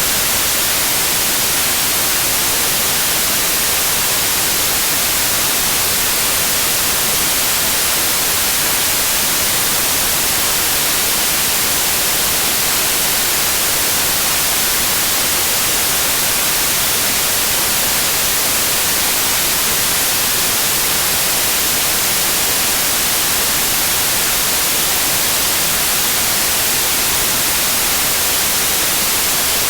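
Steady, unchanging white noise: an even hiss, strongest in the treble, that does not vary.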